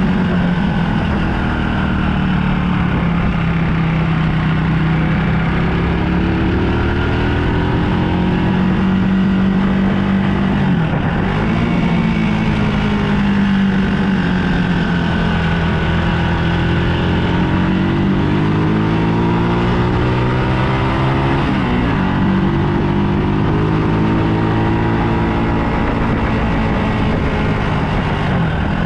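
Motorbike engine heard while riding. Its note keeps rising and falling with the throttle, drops sharply about a third and two-thirds of the way through, then climbs again.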